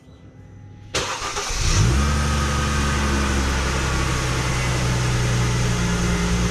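Mercedes-Benz W204 C-Class engine starting: a burst of cranking about a second in, then the engine catches with a brief rise in revs and settles into a steady idle.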